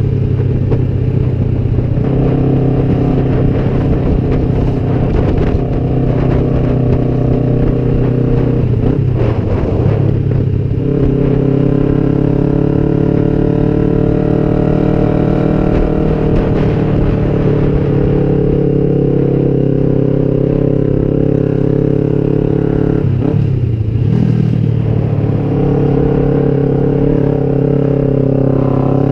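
Kawasaki Vulcan 500's parallel-twin engine running loud through drag pipes while the bike is ridden along. Its note is steady except for two brief dips and recoveries, about nine and about twenty-three seconds in.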